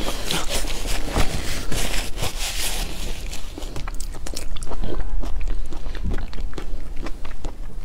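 Close-miked mouth sounds of a person eating raw marinated shrimp: wet chewing with many small clicks and crackles.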